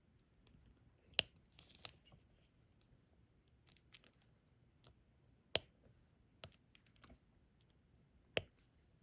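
Diamond painting pen tapping resin drills onto the sticky canvas: three sharp clicks a few seconds apart among softer ticks, with a short crinkling rustle about two seconds in.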